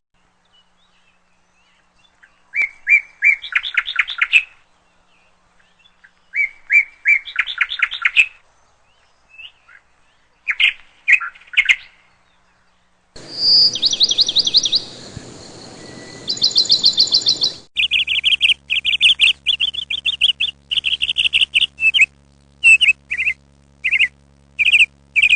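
Small birds singing: short runs of chirps that speed up into a trill, repeated three times. These are followed by higher trills and a long series of short, sharp chirps over a low steady hum.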